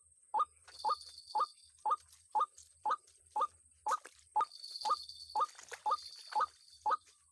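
White-breasted waterhen (ruak-ruak) calling: a long run of short, sharp, upward-sweeping notes repeated about twice a second at an even pace.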